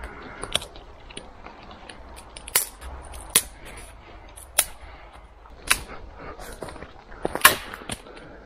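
Dead twigs and branches snapping with sharp, irregular cracks as firewood is gathered from the forest floor, with rustling and small clicks between them; the loudest crack comes near the end.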